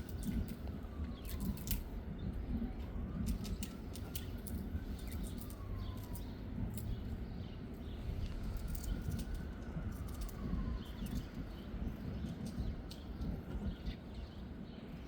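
Wind rumbling on the microphone, with small birds chirping in short, sharp notes throughout. Behind them a faint siren wails slowly up and down, one rise and fall about every four seconds.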